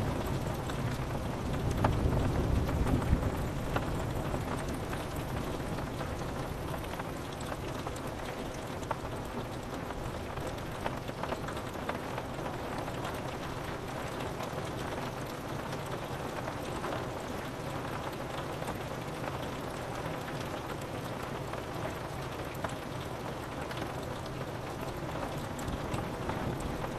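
Steady rain pattering on a window pane, with scattered drop ticks. A low thunder rumble swells about two seconds in and fades away.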